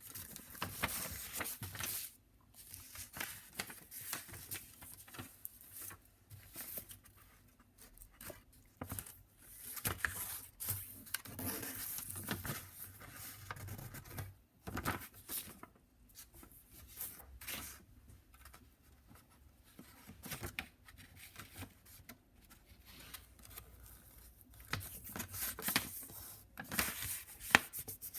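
A sheet of paper being handled, folded and creased: irregular rustling, crinkling and rubbing with scattered sharp clicks and taps.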